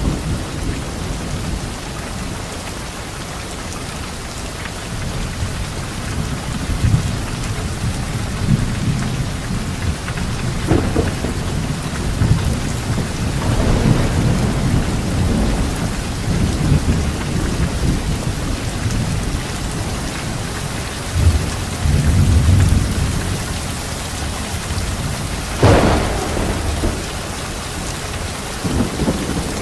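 A thunderstorm: steady heavy rain with thunder rumbling on and off. There is a sharper crack about a third of the way in, and the loudest clap comes near the end.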